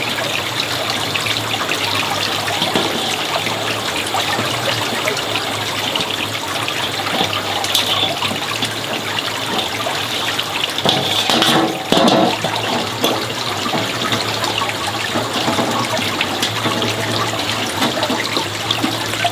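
Water running steadily, with a louder splash about eleven seconds in.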